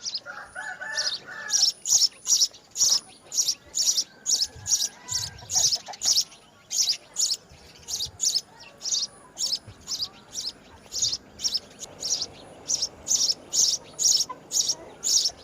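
A bird giving short, harsh, high chirps over and over, about two a second.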